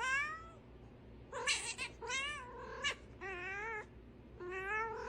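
A domestic cat yowling: about five drawn-out calls, each wavering in pitch, with short pauses between them.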